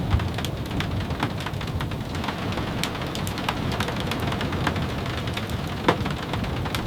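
Steady rain, with a low rumble underneath and scattered sharp clicks and taps throughout.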